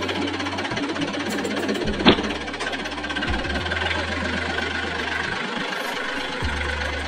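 An engine running steadily with an idle-like rumble. Its low hum drops out briefly a couple of times, and there is one sharp click about two seconds in.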